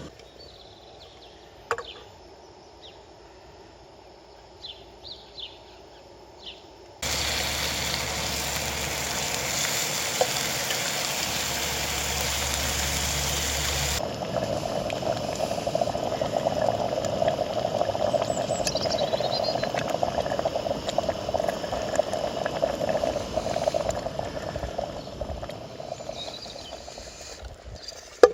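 A few faint bird chirps, then loud rushing river water that starts and stops abruptly after about seven seconds, then a steady hiss with fine crackling of food frying in a pan on a camp stove.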